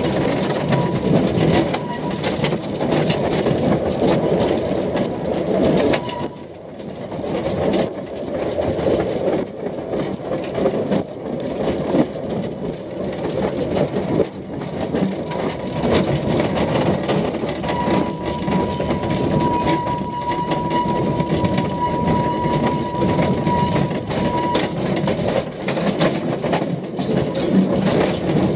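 Two-foot narrow-gauge railway carriage running along the track, heard from on board an open-sided carriage: a steady rumble and rattle of wheels on rails with frequent small clicks. A thin, steady high-pitched squeal sounds for about seven seconds past the middle.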